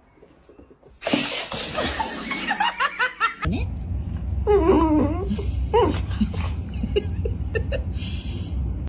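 People laughing, in fits that start about a second in and run on after a sudden change of background about three and a half seconds in.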